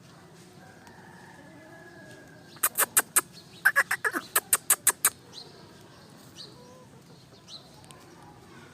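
Aseel chicken sounds: about a dozen sharp claps in quick succession over two and a half seconds, with a short squawk falling in pitch among them. Faint high chirps follow.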